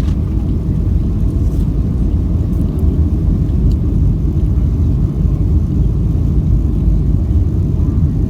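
Steady low rumble of a Boeing 737 in flight, heard inside the cabin: engine and airflow noise with a faint steady hum over it.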